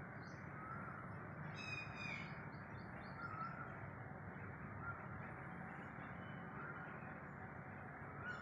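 Birds calling over a steady background noise: a harsh, layered call about two seconds in, and short chirps and whistled notes repeating every second or two.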